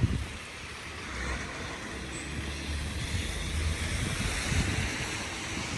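Street traffic noise: a vehicle's tyres hiss past on a wet, snowy road, rising and easing through the middle, with low wind rumble on the microphone.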